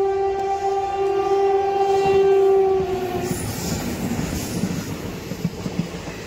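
Horn of a passing express train, one long steady blast that drops in pitch as the train reaches the camera about three seconds in. Then comes the rumble and wheel clatter of the coaches rushing past at speed.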